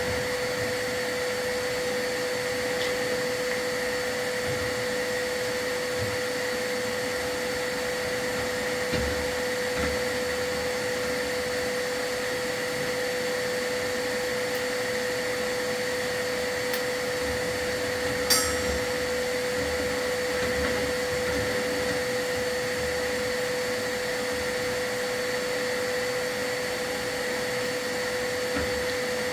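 Vacuum running steadily with a constant high whine, the dust-collection vacuum used during a fireplace sweep. Soft low knocks come through now and then, and there is one sharp click about eighteen seconds in.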